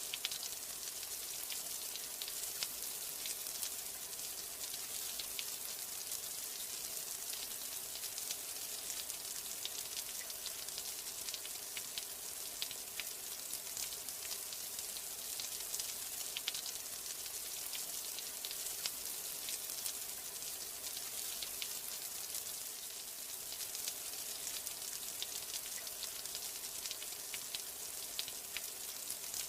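Steady rain: an even hiss of falling rain dotted with many small, sharp droplet ticks.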